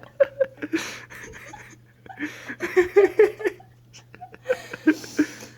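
People laughing in short bursts, loudest around the middle and again near the end.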